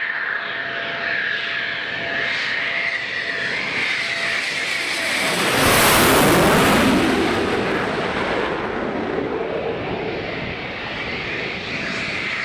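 Eurofighter Typhoon jet passing by: a steady high whine swells into a loud rush about six seconds in, the pitch falling as it goes past, then eases back to the whine.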